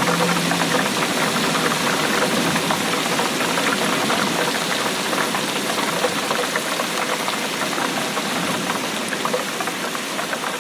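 Steady rain falling, a dense patter of countless small drop impacts with no let-up.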